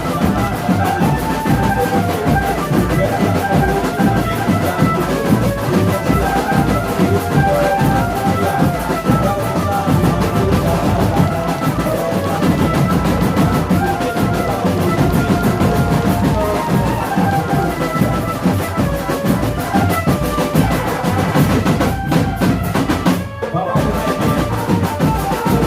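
Marching drum band playing: snare and bass drums keep up a dense beat under a melody from the band's melodic instruments.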